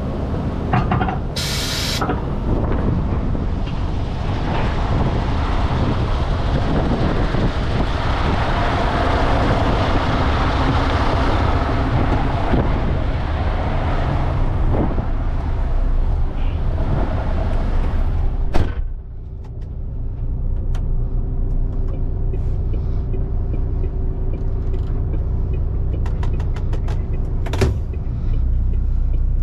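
MAN TGS truck's straight-six diesel running under way, a steady low drone with road noise. A short hiss of air comes about a second and a half in, a sharp click at about two-thirds of the way, and another short hiss near the end.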